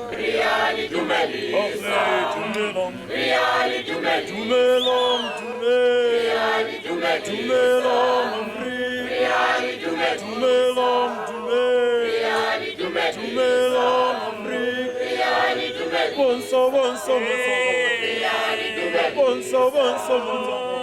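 A choir singing: several voices chanting together over a held note, with sung phrases rising and falling above it.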